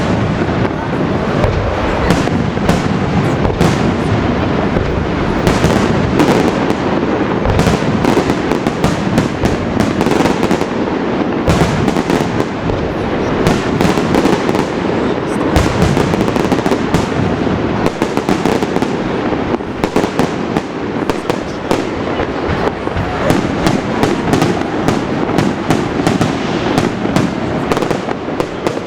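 Fireworks display going off continuously, a dense run of bangs and crackles with no break.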